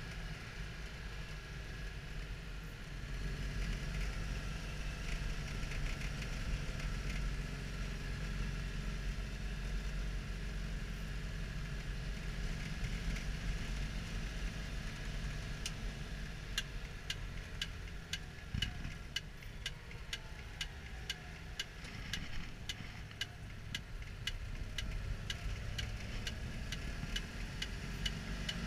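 Citroën Dyane 6's air-cooled flat-twin engine running steadily on the move, heard from inside the cabin. About halfway through, a sharp tick starts repeating about twice a second, and there is a single knock a few seconds later.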